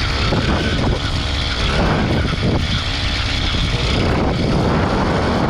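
An 80cc two-stroke motorized-bicycle engine running under throttle on the move, its buzzing pitch rising and falling as the rider works the throttle.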